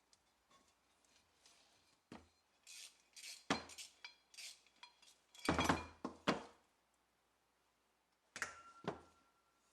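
Metal parts being handled and set down on a work surface: a run of clinks, knocks and short scraping clatters. Near the end one knock leaves a brief metallic ring.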